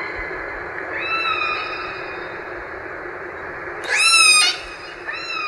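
Orca (killer whale) calls: a slightly falling call about a second in, then a louder call around four seconds in that sweeps sharply up and falls off, and a short call near the end, over a steady background hiss.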